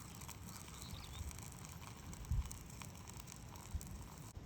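Quiet handling noises: light crinkling and rustling with two soft knocks, about two seconds in and near the end.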